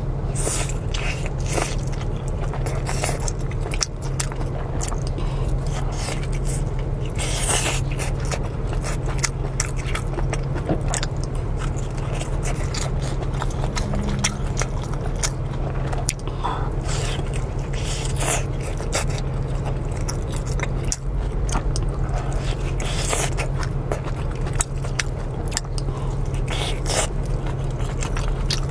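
Close-miked eating of spicy luosifen rice noodles: chewing and biting with many short wet clicks and smacks, over a steady low hum.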